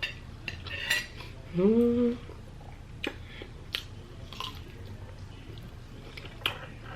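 Cutlery clinking against a plate during a meal: scattered light clicks every second or so, with a short hum from the eater about a second and a half in.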